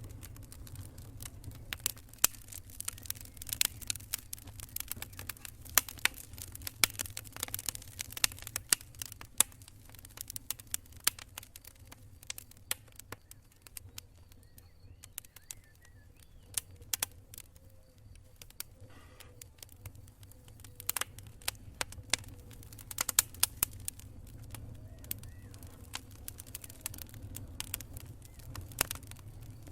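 Wood campfire crackling: burning wood giving off irregular sharp pops and snaps, thicker in some stretches and sparser in others, over a steady low rumble.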